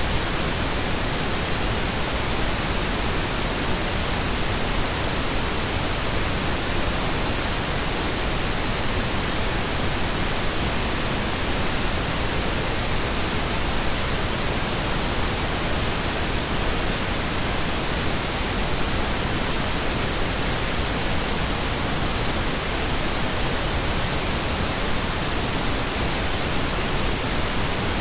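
Steady pink noise: an even, unchanging hiss across the whole range of pitch, synthetic sleep noise.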